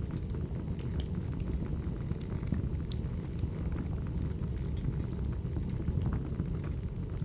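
Wood fire burning: a steady low rumble with scattered sharp crackles and pops, several over the few seconds.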